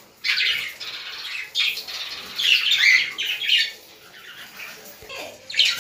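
Caged pet parrots, budgerigars and cockatiels, squawking and chattering in quick short calls. The calls are loudest about two and a half to three seconds in, ease off for a moment, and pick up again at the end.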